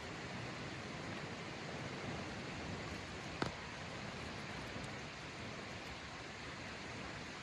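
Steady rushing outdoor background noise, with one sharp click about three and a half seconds in.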